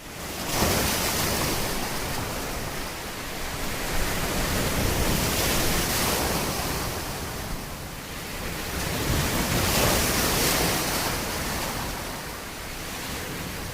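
Ocean surf: a steady wash of waves rising and falling in slow swells every few seconds.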